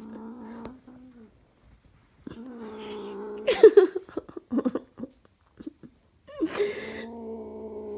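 Domestic cat giving long, low, drawn-out yowls, three of them: one fading out about a second in, one from about two seconds in, and one starting near the end, each briefly louder at its onset.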